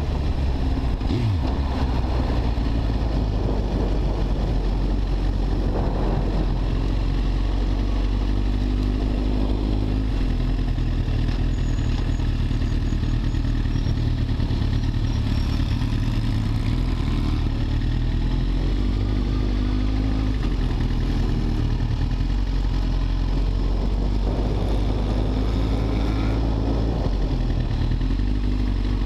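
Motorcycle engine running steadily under way, its pitch shifting a little now and then.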